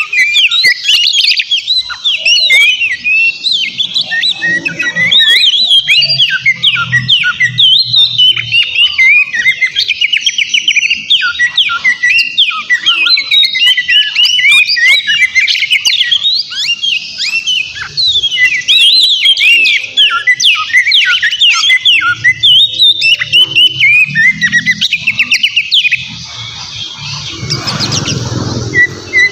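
Oriental magpie-robin singing hard and without pause: a fast, dense stream of varied whistles and chirps with quick rising and falling notes. The song eases off briefly near the end, then resumes.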